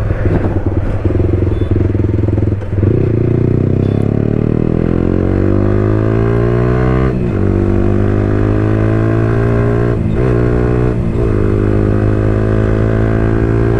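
Yamaha R15 V4's 155 cc liquid-cooled single-cylinder engine through an Akrapovic full-system exhaust with the dB killer removed, loud under hard acceleration. The revs climb for several seconds, drop with an upshift about halfway, and twice more a few seconds later, then hold steady.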